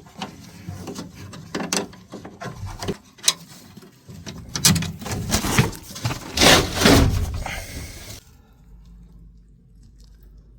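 Handling noise: irregular rubbing, scraping and a few sharp knocks. These stop about eight seconds in, leaving a low steady hum.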